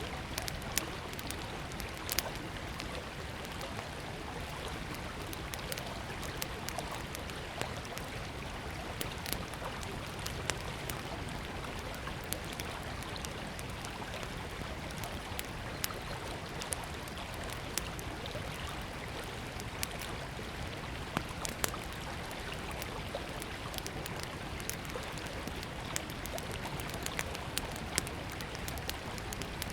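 Small wood campfire crackling with irregular sharp pops, over the steady rush of a flowing river.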